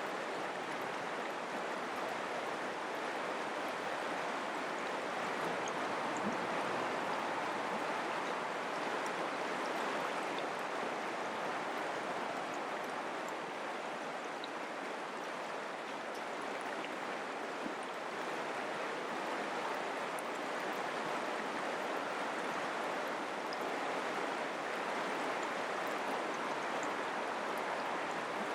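Mountain creek water flowing, a steady, even rush with no breaks.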